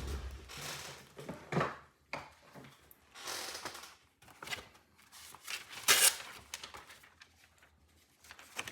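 Things being handled on a desk, with scattered rustles and knocks, then a sharp loud clatter about six seconds in as a bottle of rubbing alcohol is knocked over.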